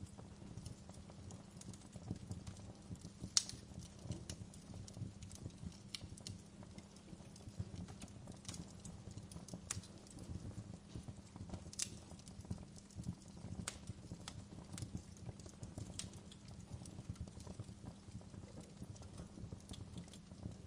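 Wood fire crackling: irregular small pops and snaps over a low, steady rumble, with a sharper pop about three seconds in and another near twelve seconds.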